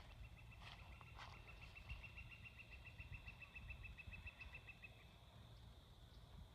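A small songbird's long, even trill of rapid notes on one pitch, about nine notes a second, lasting around four and a half seconds. It is faint, with a couple of short chirps near the start and a low rumble of wind or handling noise underneath.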